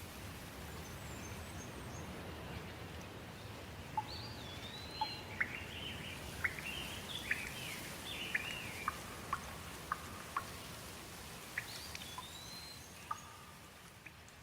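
Steady rain with songbirds calling over it: a run of short, sharp chirps and sweeping whistles from about four seconds in, thinning out near the end.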